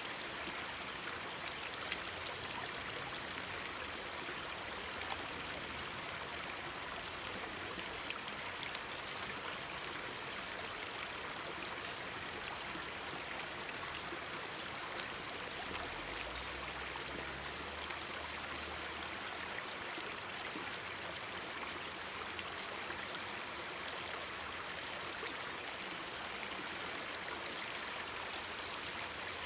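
Mountain stream running steadily, with scattered sharp pops and crackles from a wood campfire, the loudest about two seconds in.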